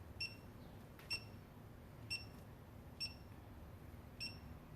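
Digital torque wrench beeping as its buttons are pressed to switch it to angle mode for a 90-degree turn: five short, high electronic beeps about a second apart.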